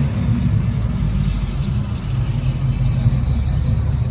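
Steady low engine drone and road noise from a moving vehicle.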